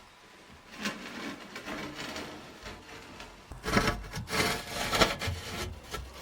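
Irregular scraping and rubbing strokes on aerated concrete blocks as they are worked and set. The strokes are loudest about four to five seconds in.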